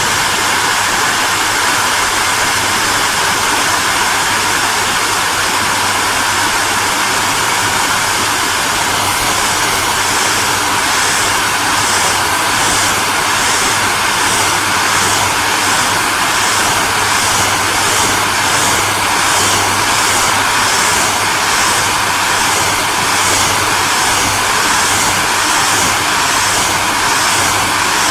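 Hair dryer running steadily: a continuous rushing blow of air with a low motor hum underneath. From about ten seconds in, a faint high flutter pulses about twice a second.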